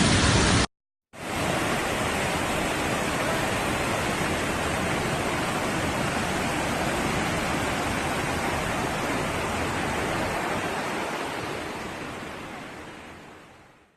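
Steady rushing roar of floodwater, breaking off briefly about a second in and then fading out over the last few seconds.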